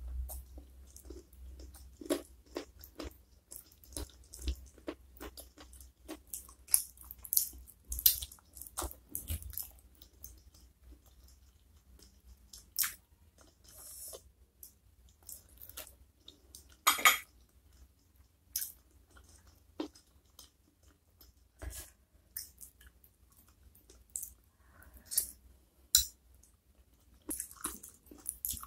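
Close-up chewing of soft-cooked chicken feet in spicy sauce: irregular wet smacks and sharp clicks of mouth and teeth, with the loudest about 8 s and 17 s in.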